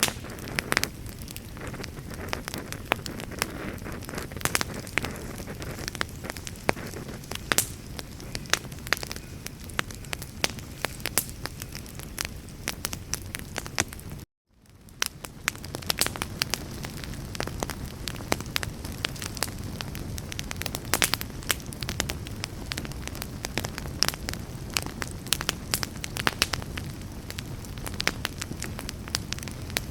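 Campfire crackling: frequent sharp pops and snaps over a steady low rush of burning wood. About halfway through the sound cuts out for a moment and then fades back in.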